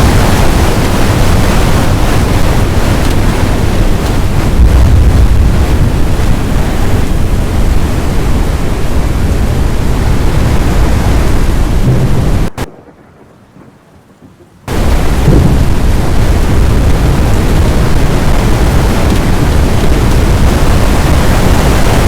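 Thunderstorm noise: wind and rain make a loud, steady rushing roar that is heaviest in the low end. It cuts out abruptly for about two seconds past the middle, then comes straight back.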